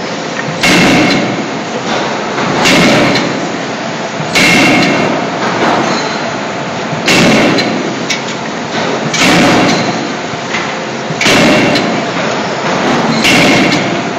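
A 16 kJ CNC hydraulic forging hammer striking in a closed die while forging scissors, about one heavy blow every two seconds. Each blow rings on briefly with a metallic ring.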